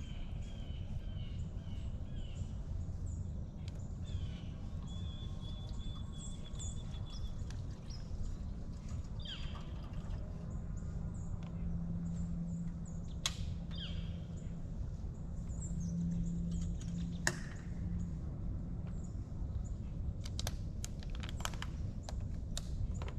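Small birds chirping and calling, many short high chirps and one held whistled note, over a steady low background rumble. A few sharp clicks come later.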